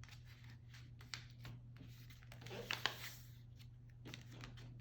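A sheet of paper being folded and creased by hand: faint rustles and soft clicks, a little louder about two and a half seconds in, over a low steady hum.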